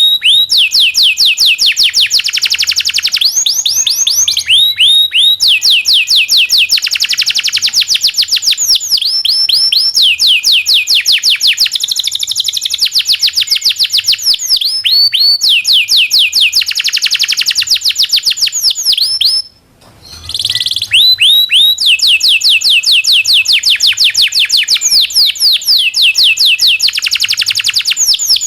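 Domestic canary singing long rolling trills, each a fast run of repeated downward-sweeping chirps, with a short break a little over two thirds of the way through.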